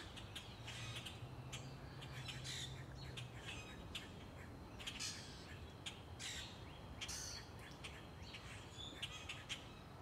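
Many birds calling busily, with short high-pitched calls coming every second or so. A faint low hum sits under them for the first few seconds.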